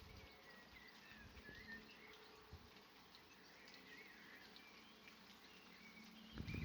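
Near silence with faint distant birds chirping and warbling in short phrases. A low rumble comes in near the end.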